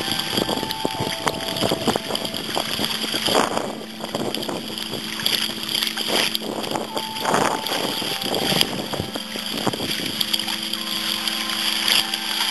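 Turbulent current sloshing and splashing around a kayak, with wind buffeting the microphone in irregular gusts.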